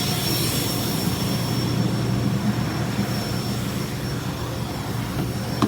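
Car wash vacuum running steadily: a low motor drone with a thin, constant high whine.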